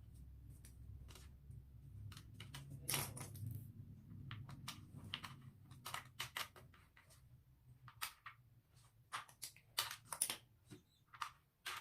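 Irregular light clicks and taps from a screwdriver driving screws into the parts of a washing-machine stand, with a faint low hum beneath during the first half.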